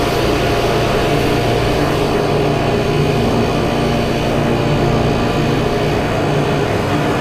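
A 50cc scooter engine held at full throttle at its top speed, a steady drone that holds its pitch.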